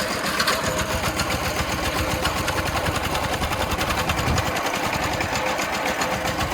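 Small Chinese-made tractor engine of about 13.5 horsepower running steadily with a rapid, even chugging.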